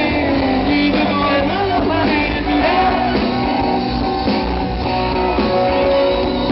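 Live rock band playing a loud, continuous passage with guitar prominent, between the sung lines of the song.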